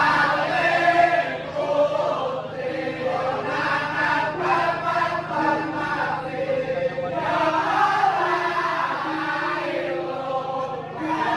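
A group of voices chanting together in long held notes, over a steady low hum.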